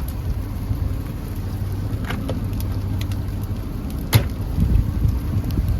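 Ford F-350's 6.7 L Power Stroke V8 diesel engine idling with a steady low hum, with scattered light ticks and one sharp click about four seconds in.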